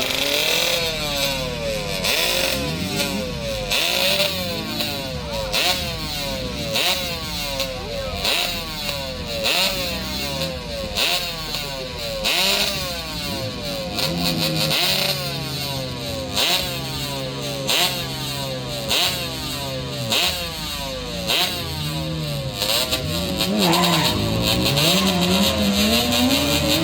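Motorcycle engines revving at a drag strip, the pitch rising and falling over and over in quick throttle blips. From about 24 seconds in, one engine's pitch climbs steadily as it accelerates.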